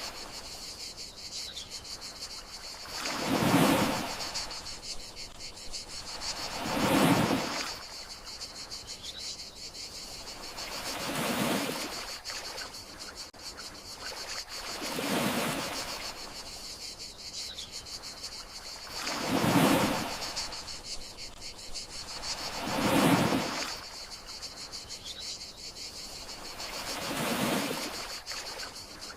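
Gentle sea waves washing onto the shore in slow, even swells, about one every four seconds. Under them runs a steady high trill of crickets.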